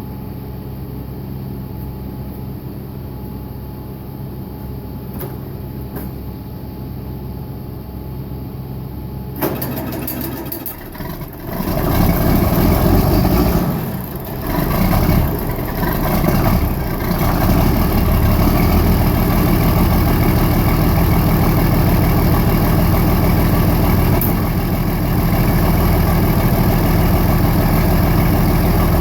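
John Deere 4430's six-cylinder turbo diesel cold-started at 19 °F without block heater or starting fluid. After a steady low hum, the starter cranks about nine seconds in, and the engine catches about three seconds later. It runs unevenly for a few seconds, then settles into a steady idle.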